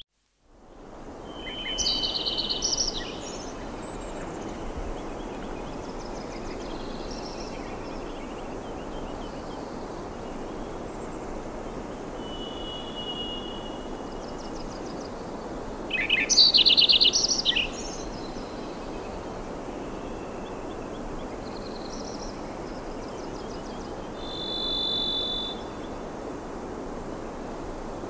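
Birds singing in short high phrases over a steady outdoor background hiss. The loudest bursts of song come about two seconds in and about sixteen seconds in, with quieter calls between them.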